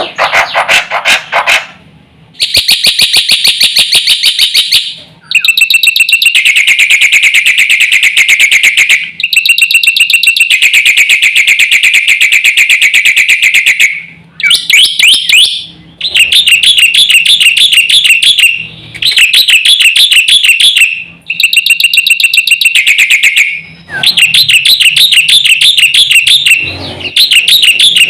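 Black-winged myna (jalak putih) singing loudly and at full stretch. It sings long phrases of rapid repeated notes, each a few seconds long, with short pauses between them.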